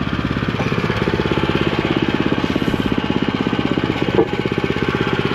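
Engine-driven construction machine pounding at a rapid, even rhythm, with one sharper knock about four seconds in.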